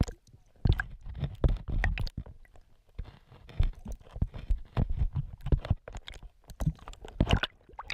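Irregular crunching clicks and knocks, several a second, picked up by a GoPro in its waterproof housing submerged in a stream: stones knocking and scraping in the water around the camera.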